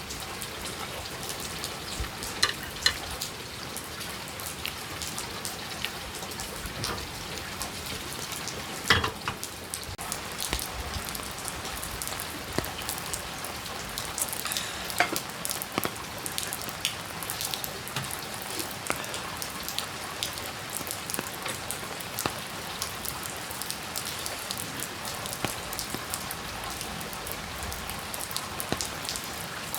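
Steady rain falling, with scattered sharp clicks standing out from it, the loudest about two, three, nine and fifteen seconds in.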